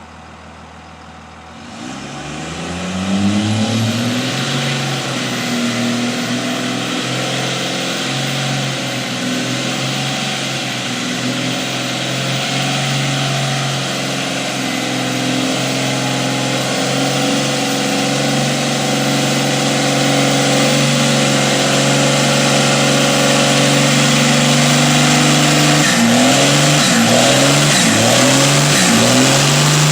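24-valve Cummins inline-six turbo diesel revving up about two seconds in and then held at raised revs, with a thin high turbo whistle running above the engine note. Near the end the engine is blipped several times, the pitch rising and falling with each blip and the whistle wavering with it.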